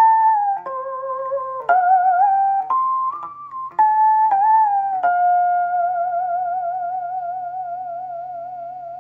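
Amplified đàn bầu (Vietnamese monochord) playing a short phrase of plucked notes, each bent up or down in pitch. About five seconds in it settles on one long note with a wavering vibrato that slowly fades away, over a faint steady hum from the amplifier.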